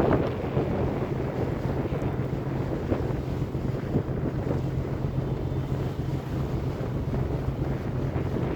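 Ferry boat's engine running with a steady low drone, and wind buffeting the microphone.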